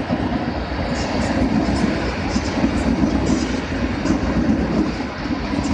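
Newag Impuls electric multiple unit pulling slowly into a station platform and running past: a steady rumble of motors and wheels on the rails, with short high squeaks now and then.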